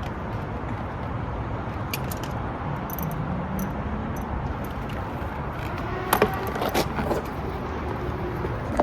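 Metal hand tools clinking and clicking against engine parts while the EGR valve's bolts are worked loose, with a few light clicks early on and a louder cluster of clinks about six to seven seconds in, over a steady background noise.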